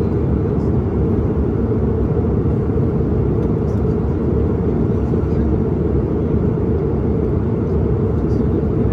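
Steady, deep cabin noise of an airliner in flight, engine and airflow noise heard from inside the cabin, holding level without change.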